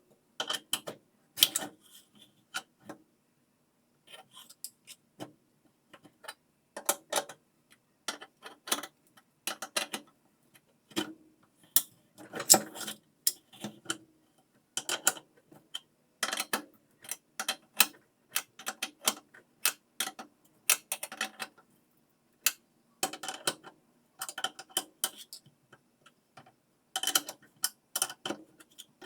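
Irregular metallic clicks, clinks and knocks of hand tools and metal parts being handled, coming in small clusters, some with a brief ring.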